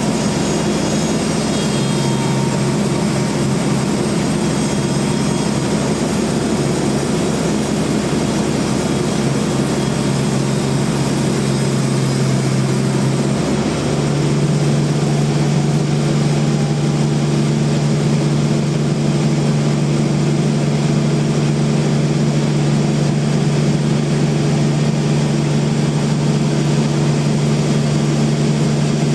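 Band sawmill running, a loud steady machine hum with a hiss on top. About halfway through, the hum steps up in pitch and the hiss fades.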